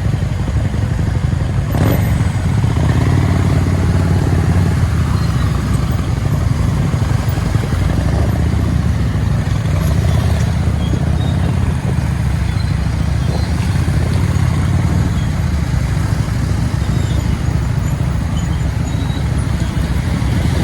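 Motorcycle riding along a road, a steady loud rumble of engine and road noise, with one sharp knock about two seconds in.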